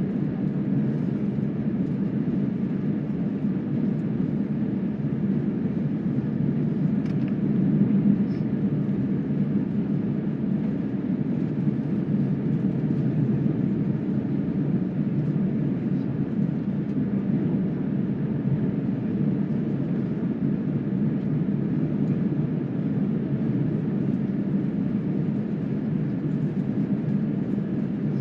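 Jet airliner cabin noise on the ground before takeoff: the engines running at idle as a steady low rumble heard from inside the cabin.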